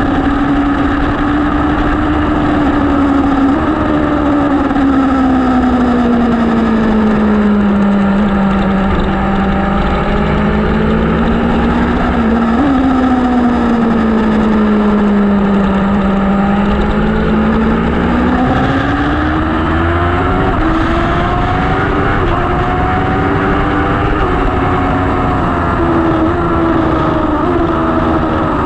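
A vehicle engine running continuously, its pitch slowly dropping and rising several times as the revs change, with a brief blip about halfway through.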